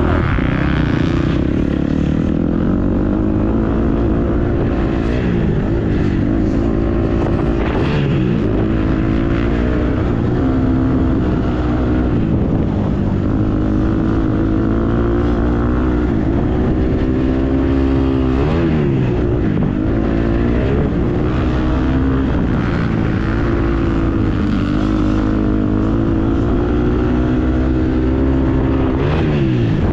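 Motocross dirt bike engine running hard, its pitch rising and falling over and over as the throttle is opened and shut, with a few sharp drops and climbs in pitch.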